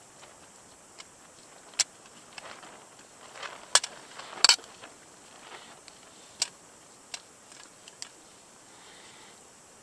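A handful of sharp clicks and knocks spread irregularly over several seconds, the loudest two close together near the middle, with soft rustling between them: hard objects being handled.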